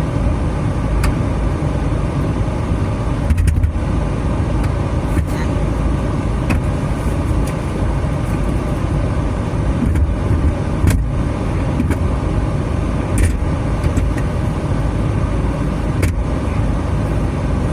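A car running and moving: steady low road and engine noise with a few faint clicks and knocks.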